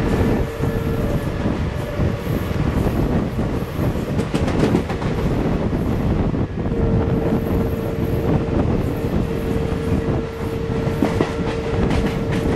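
Running noise of a passenger train heard from an open coach doorway, mixed with a container freight train passing on the next track: continuous wheel-and-rail rumble with clickety-clack over rail joints. A steady whine joins about halfway through.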